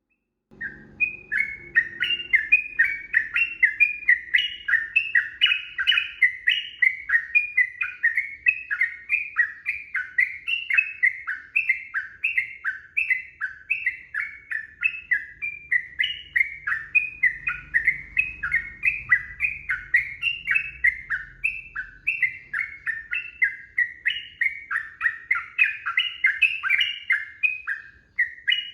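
Yellow-vented bulbul (trucukan) singing a long, unbroken run of short chirping notes, several a second, each dropping quickly in pitch. This is the bird in full song ('gacor'), the kind of long rapid song used as a lure to set other trucukan singing.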